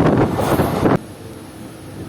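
Loud rushing and rumbling of a moving train, with wind buffeting the microphone, cutting off abruptly about a second in to a much quieter steady hum.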